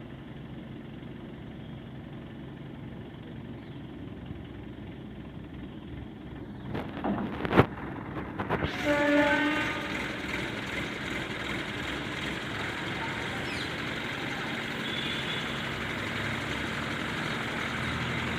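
Diesel engine of a JCB 3DX backhoe loader running steadily. A cluster of sharp knocks and clanks comes about seven to nine seconds in, and the engine sound grows fuller after them.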